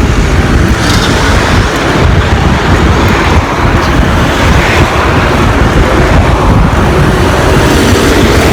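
Loud wind buffeting on the microphone while riding a bicycle along a road, mixed with passing traffic.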